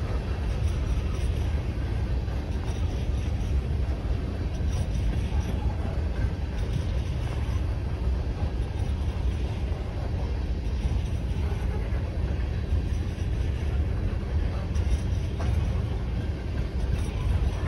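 Empty coal hopper cars of a freight train rolling past: a steady low rumble of steel wheels on the rails.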